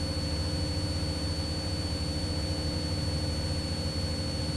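Cessna 172's piston engine and propeller droning steadily from inside the cabin at reduced power, the throttle having been pulled back about an inch for level flight at circuit height. A thin, steady high whine runs over the drone.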